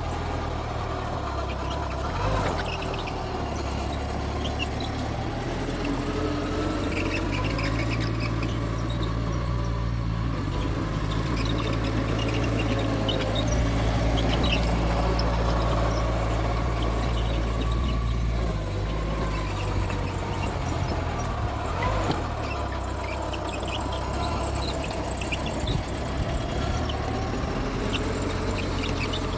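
Mitsubishi bulldozer's diesel engine running under load while pushing soil, louder for several seconds in the middle, with its steel tracks squealing and clanking.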